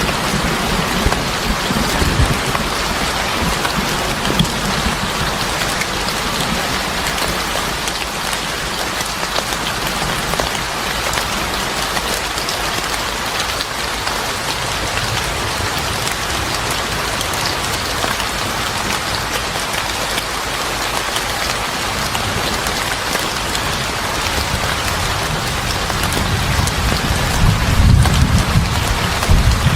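Steady rain falling, with low rumbles of thunder in the first couple of seconds and again near the end.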